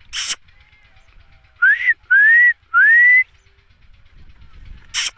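Ringneck parrot whistling three times, each a clear upward-sliding whistle, in quick succession. A short harsh burst comes just before them and another near the end.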